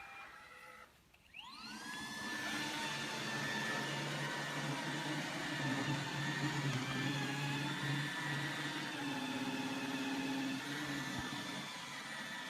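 iRobot Roomba 880 robot vacuum spinning up as it starts a cleaning run: its suction motor rises in a quick whine about a second and a half in, then runs steadily with a whir as it leaves its dock.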